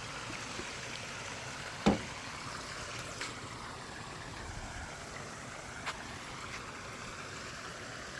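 Water running steadily from a backyard pond's waterfall, with a few short sharp clicks, the loudest about two seconds in.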